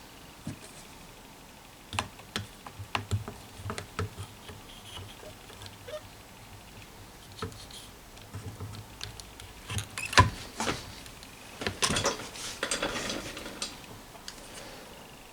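Hand-work noises on radio parts: scattered small clicks and taps, a sharper knock about ten seconds in, then a couple of seconds of rubbing.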